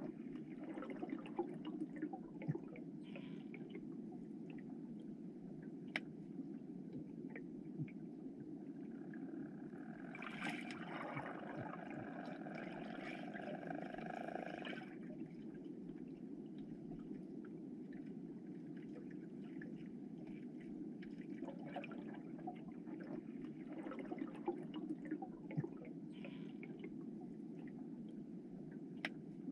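Mountain stream water rushing steadily, heard faintly, with distant voices now and then, the clearest a call lasting several seconds about ten seconds in.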